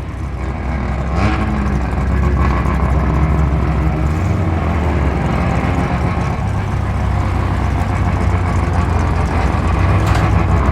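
Mazda RX3 rotary engine running very loudly at low revs as the car rolls in, a steady low rumble that grows louder over the first couple of seconds and then holds.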